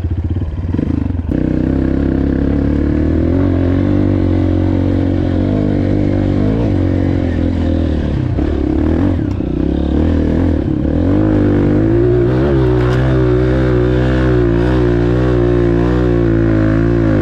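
Dirt bike engine running hard at high revs for a steep hill climb, its pitch wavering up and down as the throttle is worked, rising a little about two-thirds of the way through.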